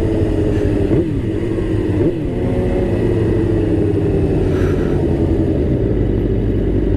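Motorcycle engine running steadily under way, with low wind rumble; the engine pitch swings briefly about one and two seconds in.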